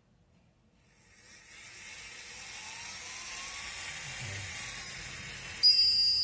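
Electric nail file's handpiece motor switched on about a second in, running up to a steady high whine. Near the end a much louder, piercing high-pitched squeal sets in: the squealing ('gritando') fault the handpiece is being checked for.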